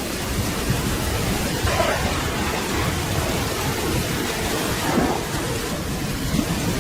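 Steady rain falling, with a low thunder rumble rolling underneath.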